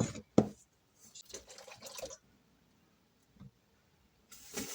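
Two sharp clinks of a utensil against a bowl, then near the end a kitchen faucet turned on, with water running steadily.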